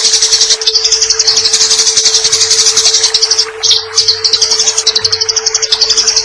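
Eurasian tree sparrow (burung gereja) giving fast, continuous, high-pitched chattering fighting calls. The chatter breaks off briefly about three and a half seconds in, with one short different note, then resumes.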